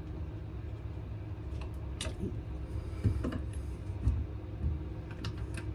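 A few scattered light clicks and knocks over a steady low hum; no sanding strokes.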